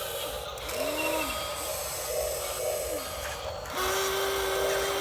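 Small electric motors of radio-controlled construction models whining in short runs, each rising in pitch, holding, then dropping away as the motor stops. A longer, steady run starts near the end.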